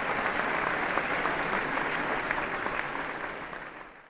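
Audience applause, many people clapping, fading out over the last second to silence.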